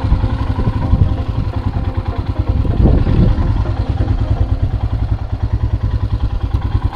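Motorcycle engine running steadily with an even, rapid chug of exhaust pulses and no revving.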